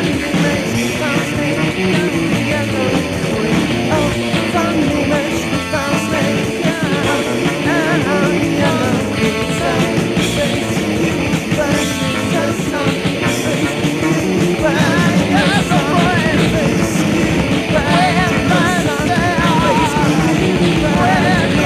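Rock band playing at a steady loud level, a dense backing with wavering lead lines above it.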